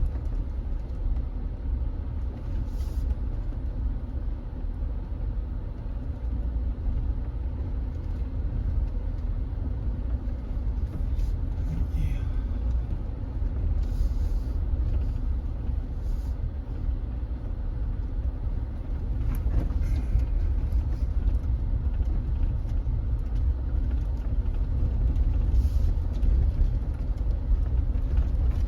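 A vehicle driving, with a steady low engine and road rumble and a few faint knocks scattered through.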